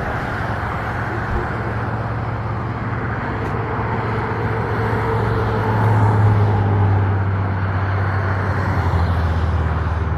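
An engine running steadily under a broad rushing noise; its low hum swells about six seconds in and drops in pitch near the end.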